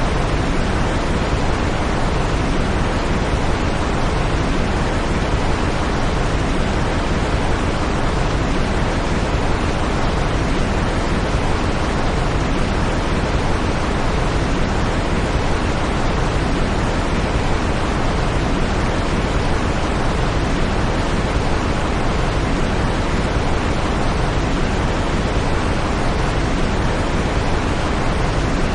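Steady electronically generated white noise of a sleep-aid track: an even, unchanging hiss, fuller in the bass than in the treble.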